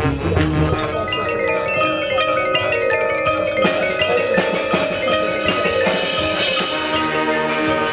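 Marching band music in which the brass chords drop out just under a second in, leaving mallet percussion, marimba and glockenspiel, playing many ringing notes.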